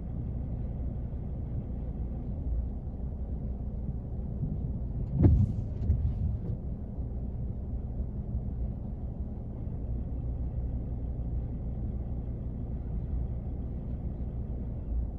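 Rain drumming on a car's roof, heard from inside the cabin as a steady, muffled low patter. About five seconds in there is one sharp knock, followed briefly by a low rumble.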